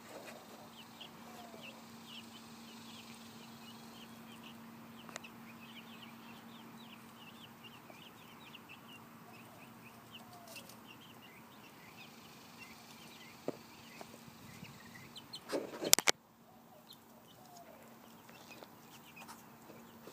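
Chickens clucking and chirping in many short high calls, over a steady low hum. A brief loud clatter of knocks about three-quarters of the way through.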